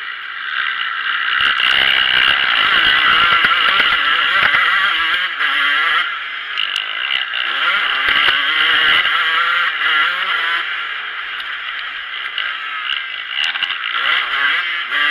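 Motocross bike's engine, heard from a camera mounted on the bike, revving up and down as the bike races over a dirt track, with some clattering knocks from the rough ground.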